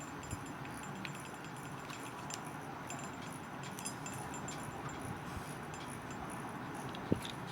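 Small metallic clicks and clinks of a screwdriver and tiny screws being fitted to a model locomotive's frame, over a steady background hiss, with one sharper click about seven seconds in.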